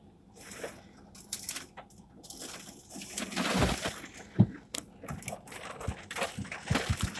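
Rain and hail striking a car's roof and windshield, heard from inside the cabin: irregular sharp taps and knocks, with brief bursts of rushing noise about three and a half seconds in.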